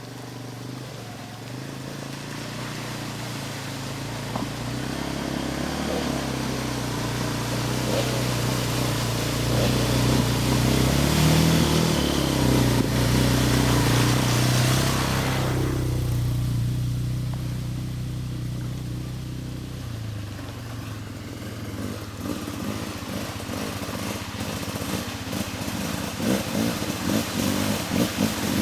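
ATV engines running through a deep, water-filled stretch of muddy trail. The engine sound builds to its loudest about twelve seconds in and then fades. A loud rushing hiss stops suddenly about sixteen seconds in, and uneven revving picks up again near the end.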